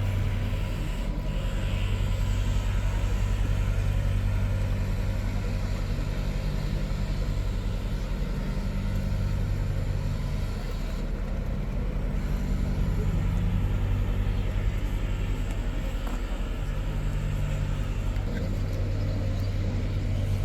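A steady low rumbling hum, swelling and easing slowly, over a faint even hiss.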